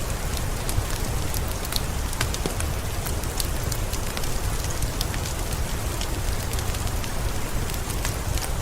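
Heavy rain falling steadily, with many close drops ticking sharply over a dense hiss and a steady low rumble.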